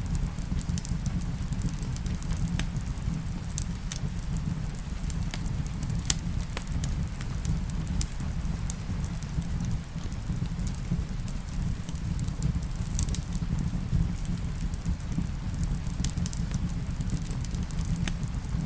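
Wood fire in a fireplace crackling, with irregular sharp pops and snaps over a steady low rumble, and a soft hiss of rain behind it.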